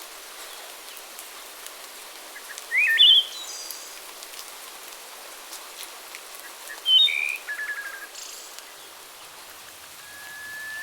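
Songbird calls over a steady background hiss: two short, loud phrases of quick rising notes about four seconds apart, the second ending in a brief rapid trill. Near the end a steady, high whistle-like tone begins.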